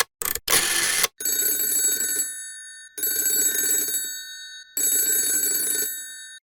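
A telephone ringing three times, each ring a steady high tone that fades away, after a short burst of noise in the first second.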